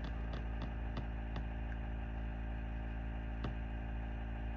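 Steady low electrical or fan hum of the room, with a few light clicks and taps, several close together in the first second and a half and one more about three and a half seconds in, typical of pattern charts being handled.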